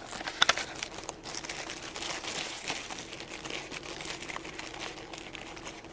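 Rustling and crinkling with a few light clicks in the first second, the sound of small parts or packaging being handled up close.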